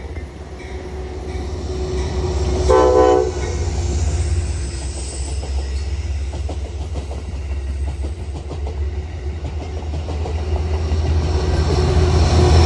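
Train passing: a short horn blast about three seconds in, then a steady low rumble with the click of wheels over rail joints, growing louder near the end as the train comes closer.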